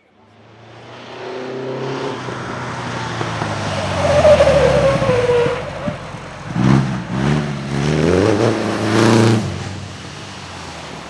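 Vintage racing car engine at full throttle, growing louder as the car approaches. In the second half its note rises and falls several times through gear changes, then drops away as the car goes past.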